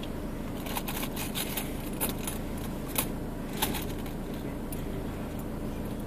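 Car engine running, a steady low hum heard from inside the cabin. Over it comes a run of light clicks and rattles through the first two-thirds, the sharpest about three seconds in.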